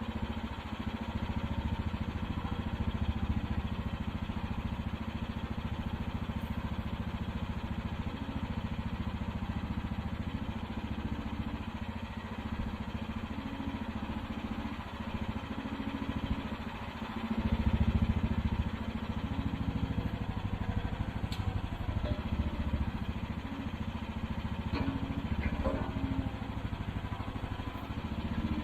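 Engine of a 1-ton mini excavator running steadily, getting louder for a second or two about two-thirds of the way through, while its hydraulics are tested after a diverter valve was fitted.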